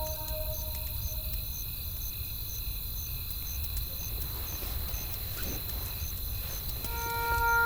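Crickets chirping steadily at a high pitch, about one and a half chirps a second, over a low rumble of wind and faint crackles of a wood fire. A held soft music note fades out in the first second, and new sustained tones come in near the end.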